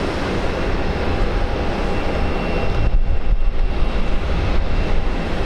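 Aircraft engine noise: a loud, steady rumble with a faint high whine, typical of an arriving airliner.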